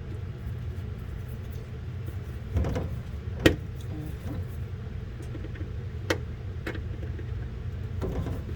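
Steady low mechanical hum with a few sharp clicks and knocks from hand work securing a screw on a refrigerator part; the loudest click comes about three and a half seconds in.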